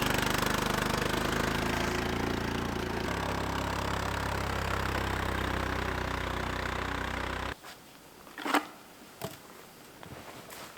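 ATV (four-wheeler) engine running steadily, its tone shifting about three seconds in, then cutting off abruptly about three quarters of the way through. A few sharp knocks follow in the quieter remainder.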